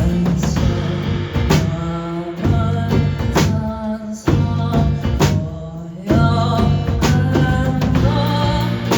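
Acoustic band playing a song live with a singer: a sung melody over guitar and steady percussion strokes, the accompaniment thinning out briefly twice midway before the full band comes back about six seconds in.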